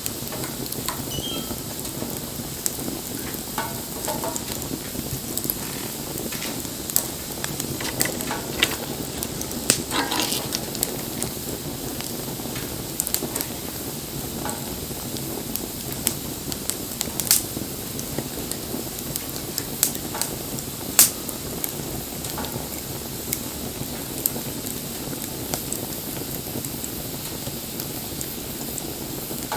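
Wood bonfire burning, a steady hiss broken by irregular crackles and sharp pops, with a few louder snaps.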